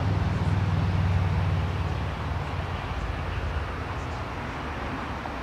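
Low rumble of a Metrolink commuter train pulling away, strongest in the first couple of seconds and then fading as it recedes, over steady outdoor background noise.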